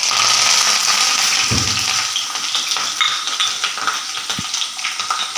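Cut garlic, ginger and curry leaves dropped into hot oil with fried mustard seeds and fenugreek: a loud sizzle starts suddenly and slowly eases, with a spoon clinking and knocking against the pan as they are stirred.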